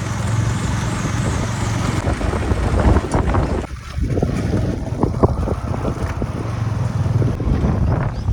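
An engine running steadily, with wind buffeting the microphone; the engine sound drops briefly a little under four seconds in, then carries on.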